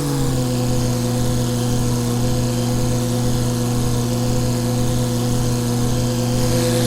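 Tractor diesel engine running at a steady speed, its hum holding one even pitch.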